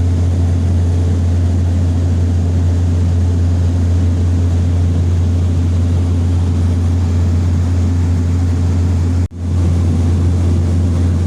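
Steady low drone of a small propeller airliner's engine and propeller, heard inside the cabin in flight. The sound cuts out for a split second about nine seconds in.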